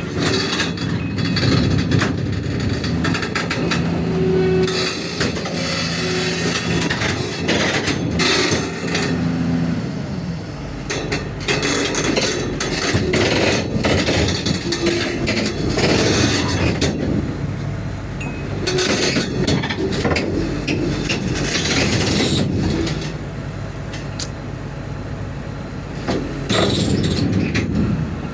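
Excavator's diesel engine running under load, with repeated sharp metal knocks and clanks over it.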